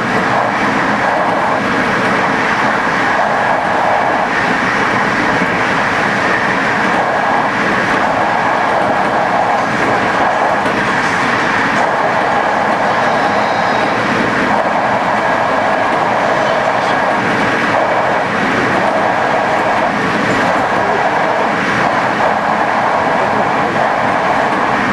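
Passenger train running steadily along the track, a continuous rumble of wheels on rail with a recurring clickety-clack.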